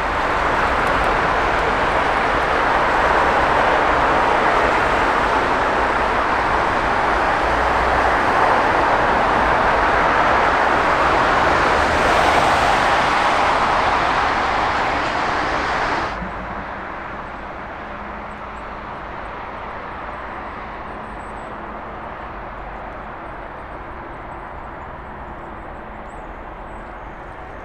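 Jet airliner engine noise, loud and steady, centred in the mid range. About sixteen seconds in it cuts off abruptly to a quieter, steady aircraft and airport noise.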